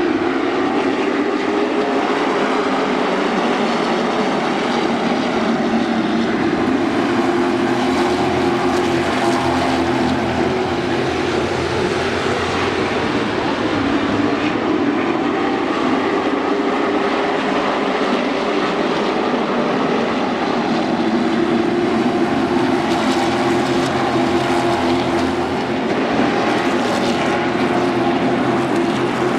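Stock car V8 engines running together on track, a loud steady engine sound whose pitch drifts slowly up and down as the cars go around.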